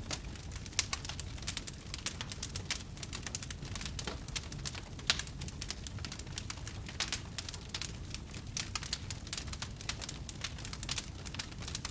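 Wood fire crackling: dense, irregular pops and snaps over a steady low rumble of the flames, with one louder pop about five seconds in.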